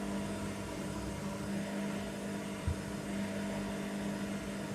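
Hoover Nextra HNWL7146 washer dryer running mid-programme, a steady motor hum, with one short knock about two and a half seconds in.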